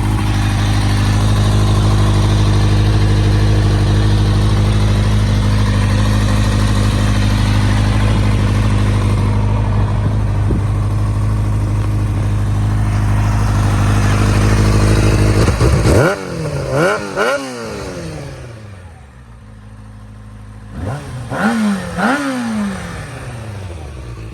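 2012 Kawasaki Ninja ZX-6R's inline-four engine idling steadily, then revved in three quick throttle blips about two-thirds of the way in and two more near the end, the pitch rising and falling sharply with each.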